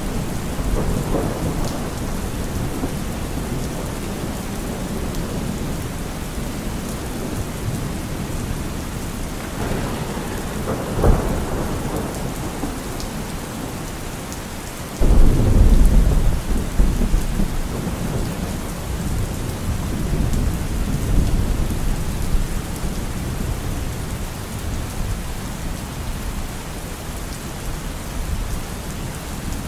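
Steady rain with thunder: a short clap about eleven seconds in, then a sudden louder clap about halfway through that rumbles on for several seconds.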